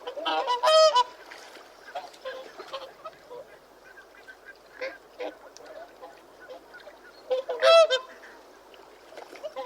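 Geese honking: two loud honks, one about half a second in and one about seven and a half seconds in, with quieter scattered calls in between.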